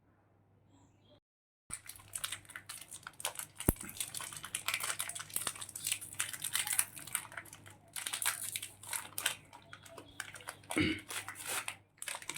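Plastic food packet crinkling and tearing as it is handled and opened, starting about a second and a half in as dense, rapid crackling.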